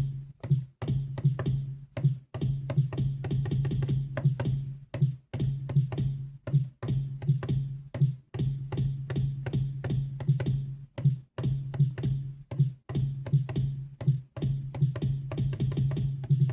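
Finger-drummed beat: drum samples triggered by hand from the pads of a Donner Starrypad MIDI controller and played through FL Studio's FPC drum sampler. Quick, uneven hits run over a low bass note that drops out now and then.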